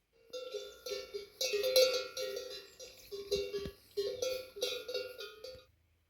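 Metal struck repeatedly, clanking with a bell-like ring, about two strikes a second for some five seconds, then stopping suddenly.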